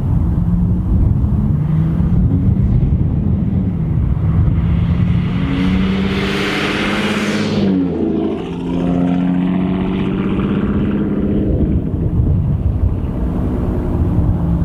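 Exhaust of a supercharged V6 Chevrolet Camaro, through an MBRP cat-back with Carven mufflers, running under power. The engine note builds, then changes pitch with a brief dip about eight seconds in, and settles back to a steady drone.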